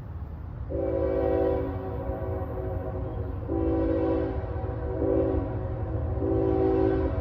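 Locomotive air horn sounding a multi-note chord in a series of blasts, starting about a second in, over a steady low rumble.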